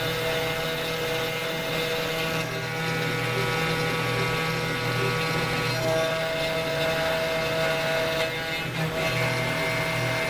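CNC router running and machining acrylic resin: a steady machine whine over constant cutting noise, with the main tone stepping up in pitch about six seconds in.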